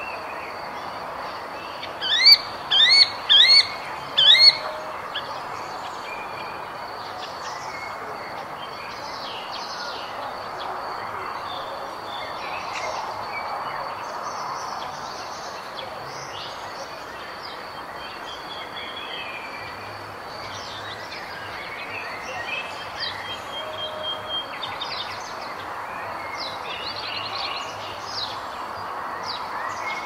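Several birds chirping and singing over a steady background hiss. About two seconds in, one bird gives a loud run of four quick sweeping notes, the loudest sound here, and smaller chirps and short trills follow throughout.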